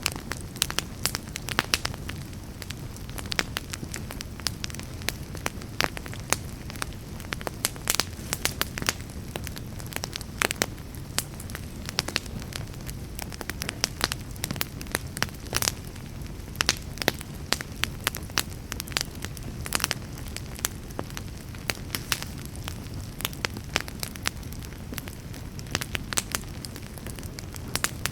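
Wood fire burning in a fireplace: a steady low rumble of flames with frequent sharp, irregular crackles and pops throughout.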